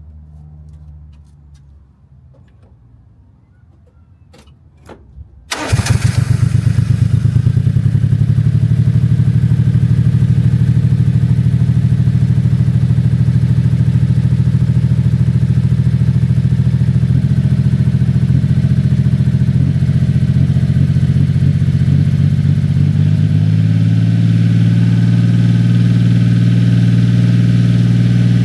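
Cold start of a 1996 Honda Acty mini truck's small three-cylinder engine through a newly fitted aftermarket exhaust: a few clicks, then the engine catches about five and a half seconds in and settles into a loud, steady high cold idle with a deep rumble. The pitch of the idle shifts about twenty-three seconds in.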